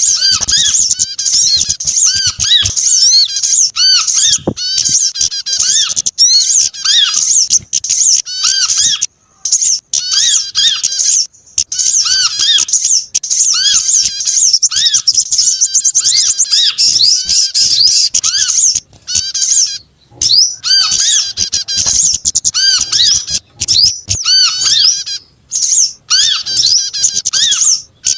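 Bird-lure recording of several small songbird species calling at once: a loud, unbroken chatter of rapid high chirps and whistles, with a repeated lower chirp under them and a few short breaks.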